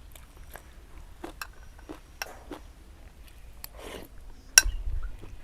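Eating at a bowl of noodle soup: scattered light clicks and clinks of utensils against the bowl, a short noisy slurp-like sound about four seconds in, and a sharper knock just after.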